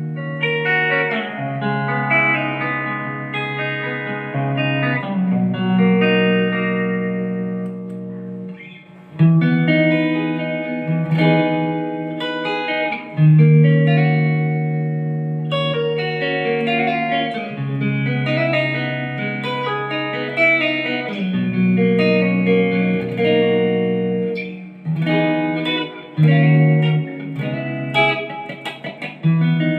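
Ibanez GIO electric guitar with HSH pickups being played: chords and notes struck and let ring for a second or more at a time. The sound fades briefly about eight seconds in before fresh strikes, and quicker, shorter notes come near the end.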